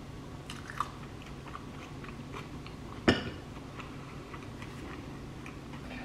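Someone eating: soft crunchy bites and chewing with small scattered clicks, and one sharp click about three seconds in, over a low steady hum.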